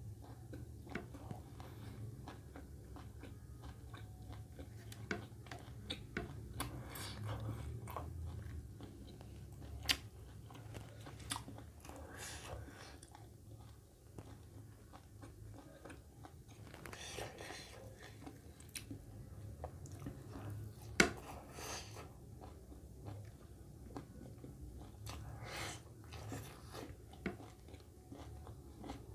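A person chewing and biting food close to the microphone, with wet mouth sounds and irregular crunches and clicks over a low steady hum; a couple of sharper clicks stand out, about ten seconds in and again about twenty-one seconds in.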